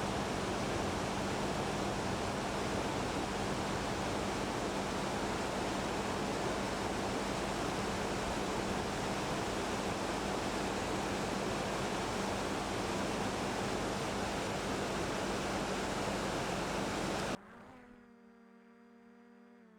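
Steady rushing noise of flowing water, with a low steady hum beneath it. It cuts off suddenly near the end, leaving only a few faint steady tones.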